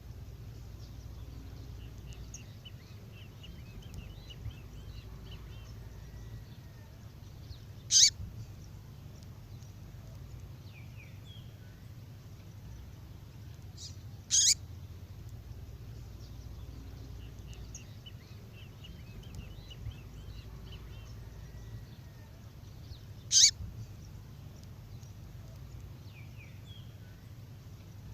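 Recorded female songbird call, played back as a lure for males: a sharp, very short call note three times at irregular intervals, with faint chirps and twitters between them, over a steady low background rumble.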